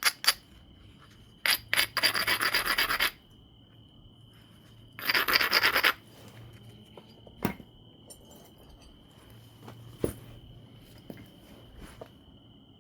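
Abrading stone rubbed quickly back and forth along the edge of an obsidian biface in two bursts of about a second each, grinding the edge to prepare striking platforms. A few light, sharp clicks of stone on stone follow.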